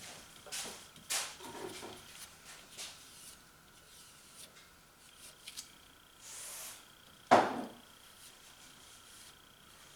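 Scattered light knocks, clicks and rubbing from tools and objects being handled, with a short hiss about six and a half seconds in and one sharper, louder knock just after it.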